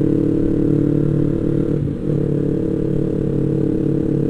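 Yamaha MT-25's 250 cc parallel-twin engine running at a steady cruise under the rider, briefly dipping about two seconds in before pulling on.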